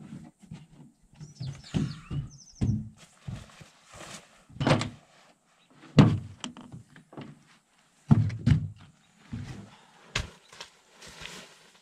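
Irregular heavy thunks and knocks, about a dozen spaced unevenly, from hands-on work at the pin and bushings of a backhoe boom. A bird chirps briefly near the start.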